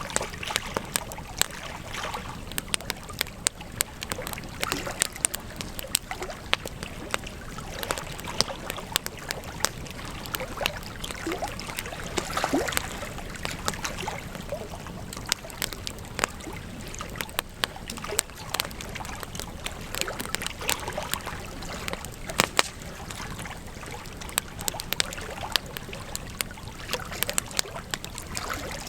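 Wood campfire crackling and popping steadily, with frequent sharp snaps over a constant soft rush of the flames and a few louder pops.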